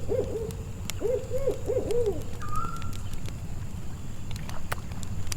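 An owl hooting in quick series of short, rising-and-falling hoots: three at the start, then five more from about a second in. Sharp campfire crackles and a steady low rumble run beneath.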